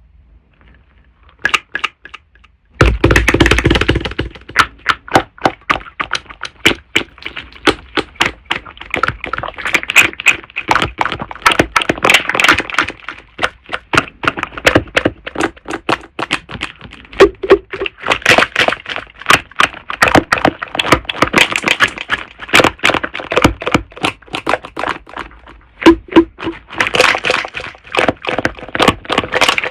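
Slime being squished and pressed, making a dense run of sticky clicks and small pops from trapped air, with a heavier thud about three seconds in.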